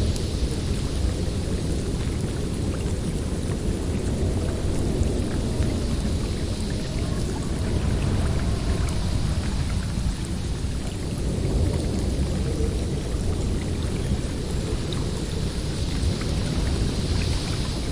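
Snowstorm wind in a forest: a steady low rumble with a higher hiss that swells and fades in gusts.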